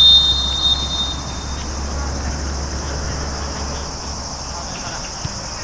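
Referee's whistle blown once, one shrill high blast about a second and a half long, followed by faint distant shouts on the pitch.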